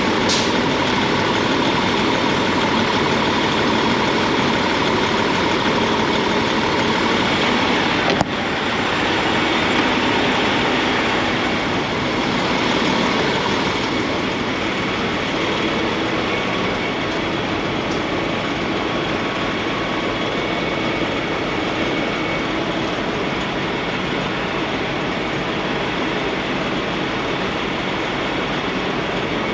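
Semi-truck's diesel engine running with a steady drone. There is a single sharp click about eight seconds in.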